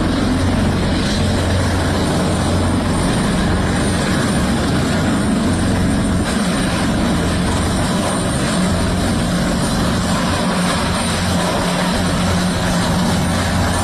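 Helicopter running steadily, a continuous rotor and turbine noise with a low hum that holds level throughout.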